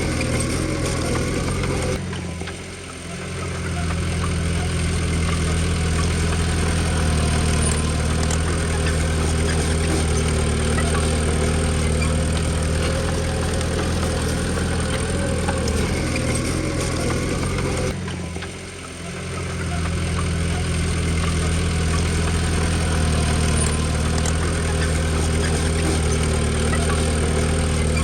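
Komatsu D20P bulldozer's diesel engine running steadily. Twice, about two seconds in and again past the middle, the sound drops away abruptly and swells back within a couple of seconds.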